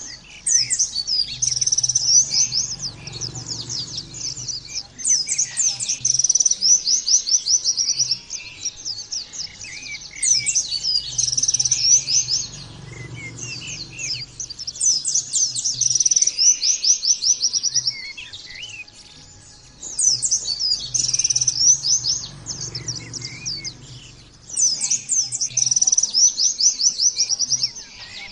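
White-eye (pleci) singing a fast-firing 'nembak' song: bouts of rapid, high-pitched chattering trills, each a few seconds long, repeating about every four to five seconds. A faint low hum sits under each bout.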